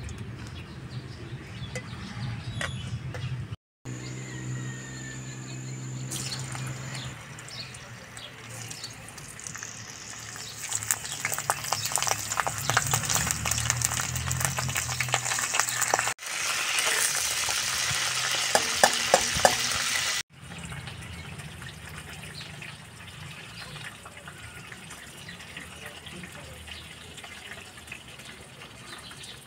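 Cauliflower florets frying in hot oil in a wok: a crackling sizzle that builds, is loudest for a few seconds just past the middle, then drops to a quieter hiss.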